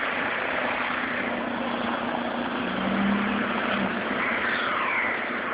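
A car engine running under a steady rushing noise, with a low steady hum from about two and a half to four seconds in.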